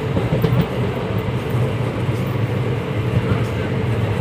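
Steady rumble of a moving train, running on without letting up.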